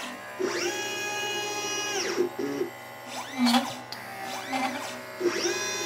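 Stepper motors of a LitePlacer pick-and-place machine moving its placement head: a whine of several tones that glides up in pitch, holds for about a second and a half, then glides down, twice, with shorter quick moves between.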